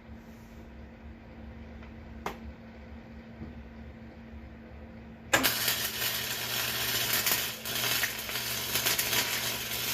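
Electric arc welder laying a weld on a steel handle support, starting about five seconds in with a steady crackling hiss over a low electrical hum. A single click sounds about two seconds in.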